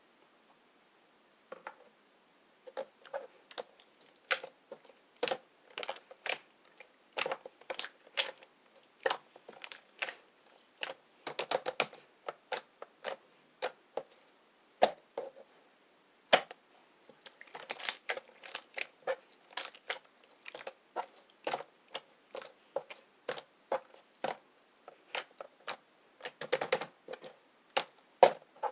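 Homemade slime being pressed and squished by hand, making irregular sharp clicks and pops, several a second, with denser bursts of popping now and then.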